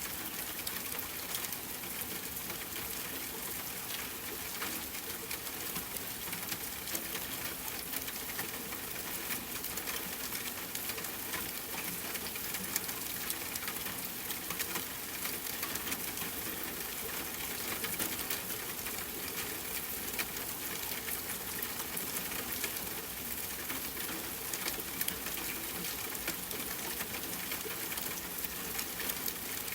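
Steady rain pattering on a tent with a campfire crackling: an even hiss dotted with a dense run of small sharp ticks.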